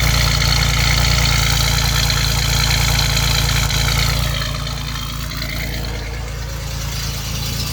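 1989 Chevrolet Celebrity's 2.8-litre V6 idling smoothly with no misfire; its crankcase vent hose is capped off, which shuts off a large vacuum leak. A high whine runs over the idle, dips and fades about four seconds in, and the engine gets a little quieter from there.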